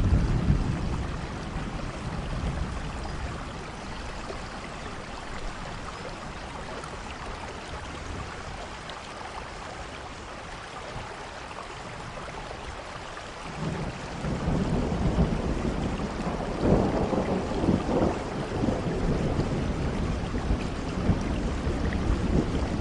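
Steady rain falling, with low rolling thunder: a short rumble right at the start, then from about halfway a longer, louder rumble that swells twice and keeps rolling.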